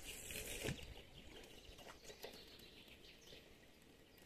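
Quiet open-air ambience with faint bird chirps, and one sharp click at the very end from the spinning reel as the angler's hand works it.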